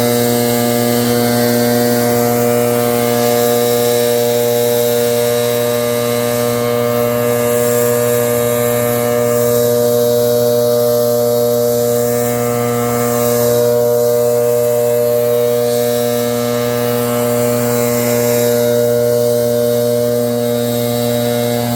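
Leaf blower running steadily at a constant pitch, a loud unbroken engine drone.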